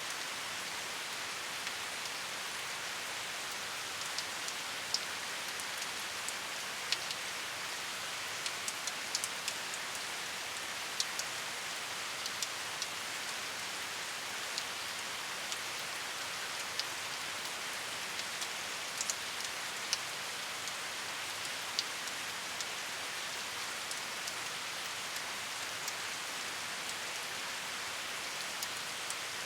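Steady rain falling, a continuous hiss with scattered sharp ticks of individual drops hitting a surface.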